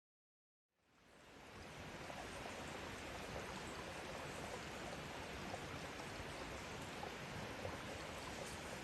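A steady rushing noise that fades in from silence about a second in and then holds evenly, with faint scattered specks in it.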